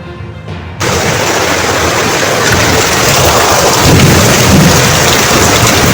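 Intro music cuts off under a second in, replaced by the loud, steady hiss of a heavy rainstorm downpour, with a deeper rumble swelling near the middle.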